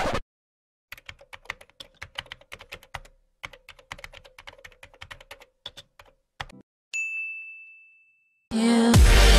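Fast keyboard typing sound effect in two runs of clicks, then a single bell-like ding that fades out over about a second. Loud electronic music with a heavy beat starts near the end.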